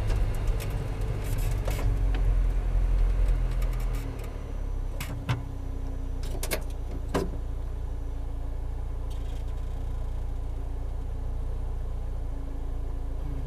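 Lotus Exige Cup 260's supercharged 1.8-litre four-cylinder heard from inside the cabin, easing off as the car slows to a stop, then idling steadily. A few sharp clicks sound in the cabin about five to seven seconds in.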